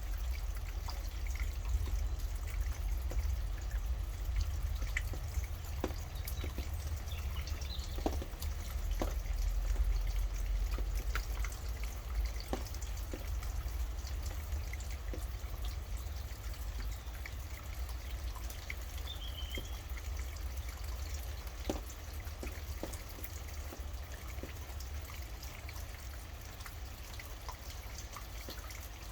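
Rain falling and dripping in scattered separate drops over a steady low rumble, with a bird chirping faintly twice.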